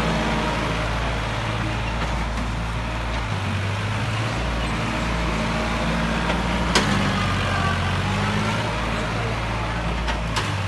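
Tractor engine running steadily, its low note shifting up and down several times, with one sharp knock about seven seconds in.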